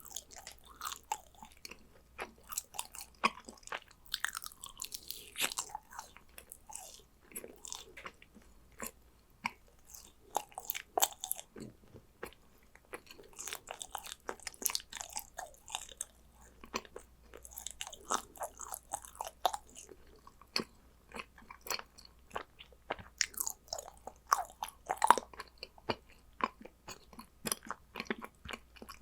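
Close-miked chewing and biting of yakgwa, Korean honey-fried cookies: a steady run of short, sharp, irregular crunching clicks and sticky mouth sounds.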